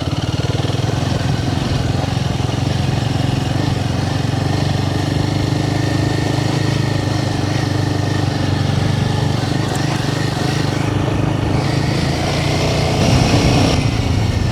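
Royal Enfield Himalayan 450 single-cylinder engine running steadily while the motorcycle is ridden, with a rougher, noisier stretch near the end.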